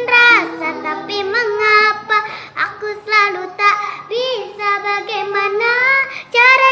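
A child singing an Indonesian pop ballad in long, wavering held notes with runs and vibrato. A soft instrumental backing sounds under the voice for the first second and a half.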